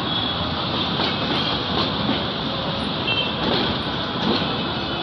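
Bangladesh Railway passenger coaches rolling through the station yard over points and curved track: a steady rumble of wheels on rail with irregular clacks over the joints. Brief high wheel squeals come near the start and again about three seconds in.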